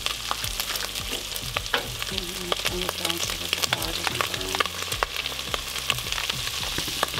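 Browned breakfast sausage sizzling and popping in a saucepan over a propane burner as flour is sprinkled in to start a roux, with a steady hiss and frequent small crackles.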